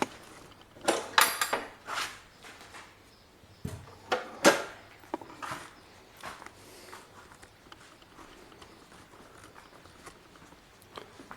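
A few scattered sharp knocks and clatters, the strongest about a second in and about four and a half seconds in, with quiet room tone between them.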